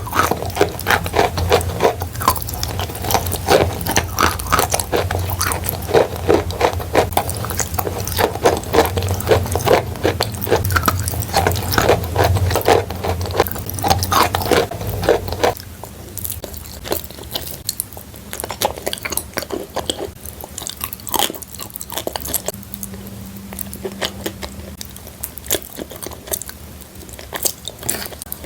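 Close-up crunching and chewing of chalk coated in clay paste. Dense, sharp crunches for about the first fifteen seconds, then an abrupt drop to softer, sparser crunches.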